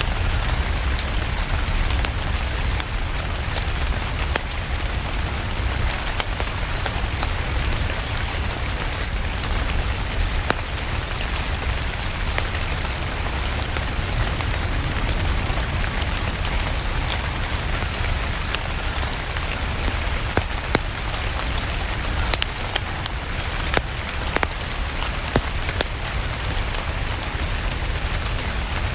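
Steady rain with many scattered sharp ticks and crackles over a constant low rumble, a rain-and-crackling-fireplace ambience.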